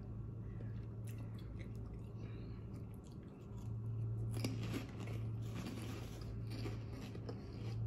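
A person biting and chewing barbecue spicy pork skin (chicharrón), with irregular crisp crunches.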